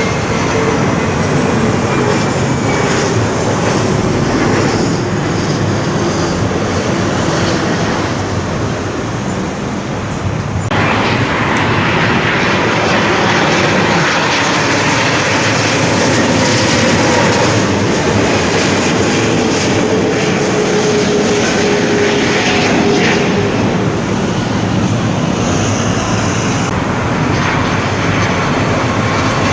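Jet airliner flying low overhead on final approach, its engines giving a loud, steady rush with a slowly falling whine. The sound changes abruptly about eleven seconds in, and again a few seconds before the end, as if at edits between passes.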